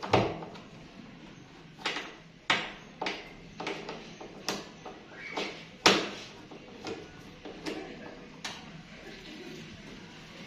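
Irregular clicks and knocks, about a dozen in all, as screws and the plastic cover parts of a top-load washing machine are worked loose with hand tools and handled. The loudest knock comes about six seconds in.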